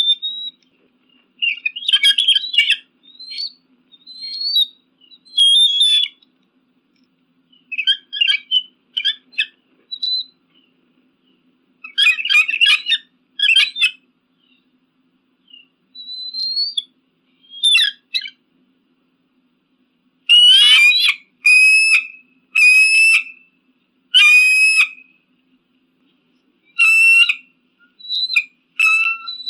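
Eagle calling: high, thin, whistle-like cries in short bouts separated by pauses. About two-thirds of the way through comes a run of five evenly spaced, harsher calls.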